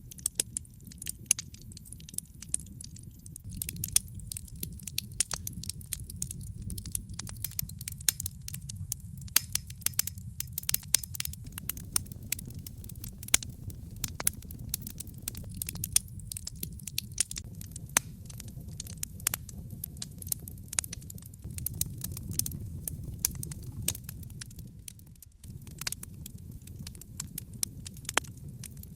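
Wood fire burning in a fireplace: a steady low roar of flames under dense, irregular crackles and sharp pops from the burning logs.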